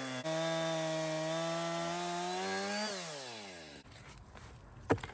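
Chainsaw with a freshly sharpened chain cutting a log at full throttle, its engine pitch stepping up and climbing slowly under load, then falling away as the throttle is released and the engine winds down. Near the end comes a single sharp knock.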